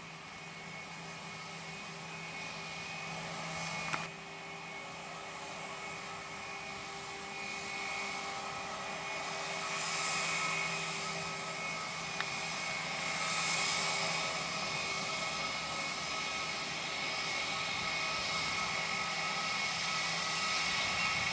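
Airliner engines running, a steady whine of several held tones over a rushing noise that slowly grows louder, swelling and easing a few times. A single sharp click about four seconds in.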